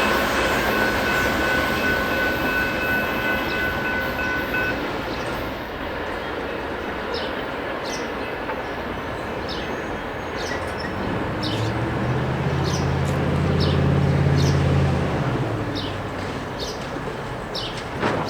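A BNSF freight train rolling past, its wheels squealing at first, then a steady rumble of cars. About two-thirds through, a diesel locomotive's engine hum swells and fades as it goes by, and short high chirps sound over the rolling noise.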